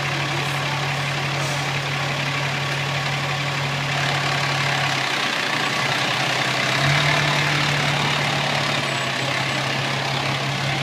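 Fire truck engine running with a steady low drone and road noise, heard from inside the cab. The low hum drops away for a couple of seconds midway, then comes back.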